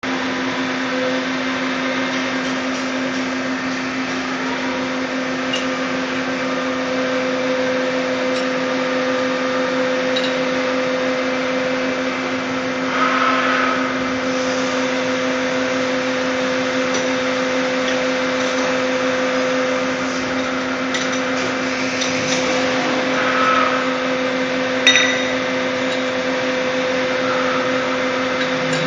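Puma 350 CNC lathe running with a steady hum, with a few light clicks and one sharper click near the end.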